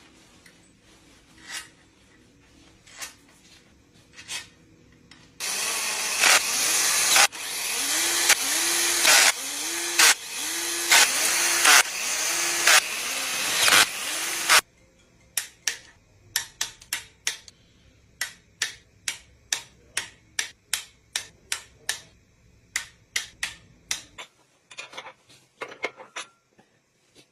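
A power tool runs in pulses for about nine seconds, its pitch swooping up with each pulse, during engine work. It stops suddenly and is followed by a long string of sharp clicks, about two or three a second.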